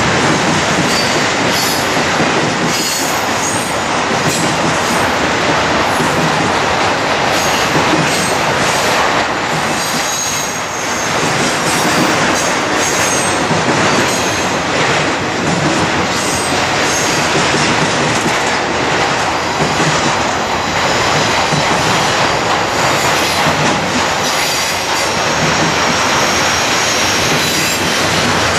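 Loud, steady rolling noise of double-stack intermodal container cars passing on the rails, with clicking of wheels over the rail joints. Thin, high wheel squeal comes and goes.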